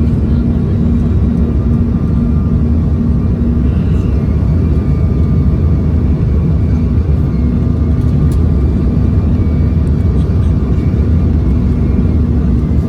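Steady drone of a Bombardier CRJ-900's tail-mounted turbofan engines and the airflow around it, heard inside the cabin in flight. A constant low hum sits under the noise.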